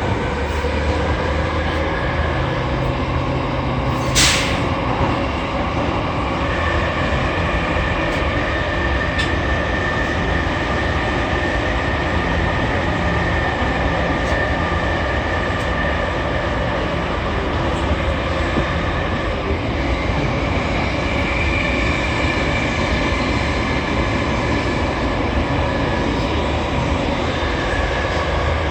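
Running noise inside a JR East E231 series 800-numbered commuter train travelling through the subway tunnel: a steady rumble of wheels on rail with a sustained high whine. There is one brief sharp noise about four seconds in.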